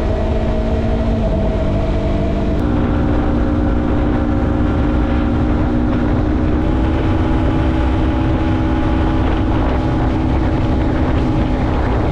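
Yamaha MT-03 motorcycle engine running at a steady cruising speed, with wind rushing over the microphone. The engine note shifts slightly about two and a half seconds in, then holds steady.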